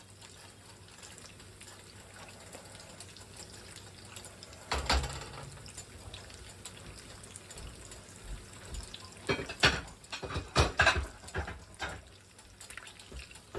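Liquid running and splashing steadily in a kitchen, with a sharp knock about five seconds in and a cluster of clattering knocks a few seconds before the end.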